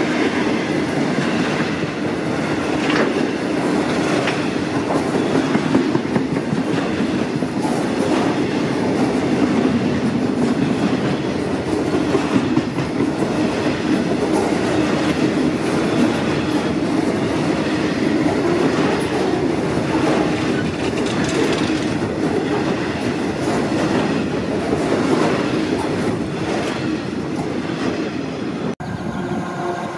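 Freight train's bogie hopper wagons rolling past, a steady loud rumble of wheels on rail with irregular clacks. The sound cuts off suddenly near the end.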